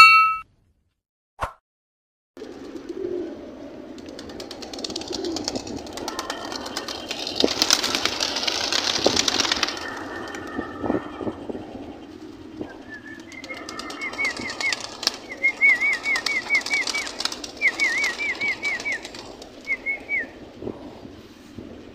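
Pigeons in a loft: a rush of wing flapping about a third of the way in, then several quick runs of short, repeated high chirps.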